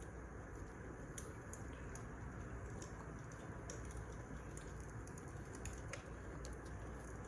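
Wood fire crackling: irregular sharp pops and snaps, about one or two a second, over a steady low hiss.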